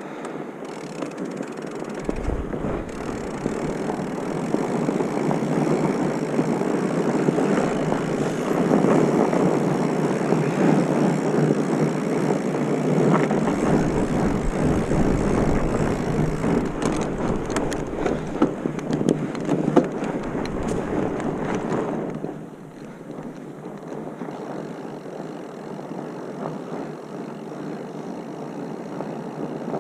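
Wind rushing over the microphone and tyres running on a dirt trail as a bike rides downhill. The noise builds over the first several seconds, then drops sharply about two-thirds of the way through as the bike slows.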